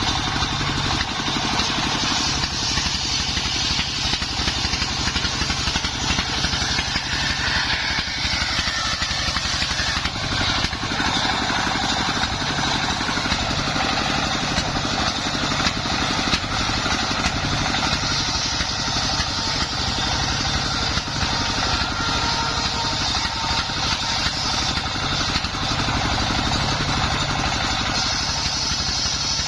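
Engine-driven homemade circular saw rig running steadily, its engine pulsing evenly under a continuous blade whine.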